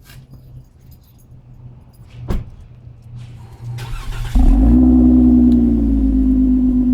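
Chrysler 200's 3.6 Pentastar V6 being started through a Corsa cat-back exhaust. After a single click, the starter cranks briefly, the engine catches with a short flare in revs, then settles into a steady, deep idle.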